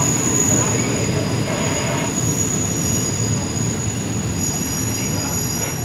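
Passenger train running on the rails, heard from on board: a steady low rumble with a thin high-pitched wheel squeal held over it, easing slightly near the end.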